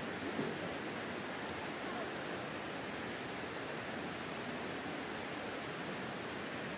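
Wood campfire burning in a fire stand: a steady rushing hiss with a few faint crackling pops.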